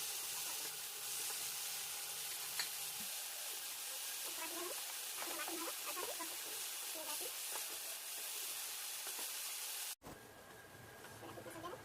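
Paneer sizzling as it fries in hot oil in a pan, with some stirring; the sizzle cuts off abruptly near the end, leaving a quieter background.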